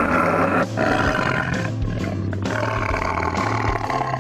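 Recorded tiger roaring a few times over background music.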